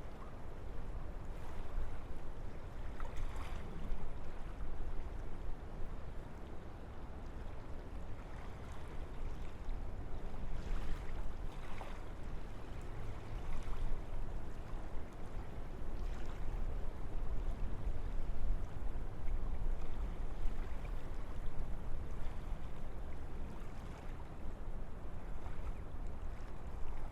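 Wind blowing through a forest: a steady low rushing that swells and eases in gusts.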